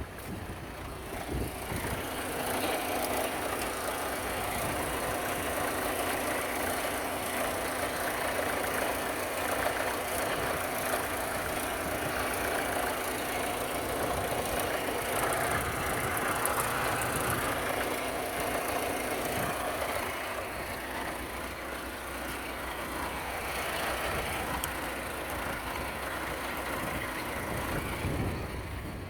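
Opel Astra G's 1.7 CDTi (Z17DTL) four-cylinder turbodiesel running steadily, most likely at idle, during an engine test.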